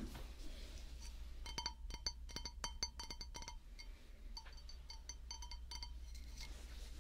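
Rapid light clinking strokes with a ringing tone that stays on the same pitch, in two runs of about two seconds each.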